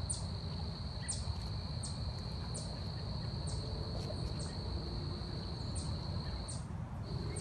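Forest insects: a steady high-pitched drone, like a cricket or cicada chorus, that breaks off briefly near the end, with short, falling high chirps repeating a little more than once a second over a low rumble.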